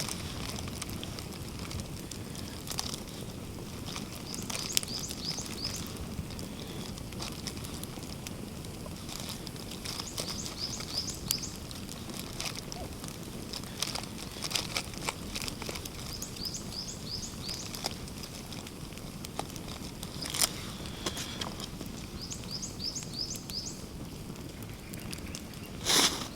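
Small bird singing short phrases of quick high chirps, repeated every few seconds, over a steady low outdoor background. Scattered sharp clicks are heard throughout, with a louder one about twenty seconds in and another near the end.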